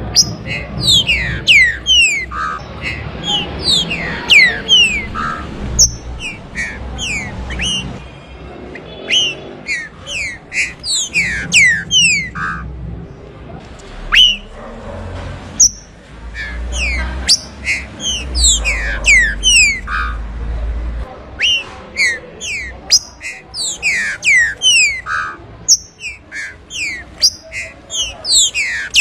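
Green-winged saltator (trinca-ferro) singing: loud, rapid whistled notes, each sliding sharply downward, repeated in quick phrases, with a low rumble underneath in the middle stretch.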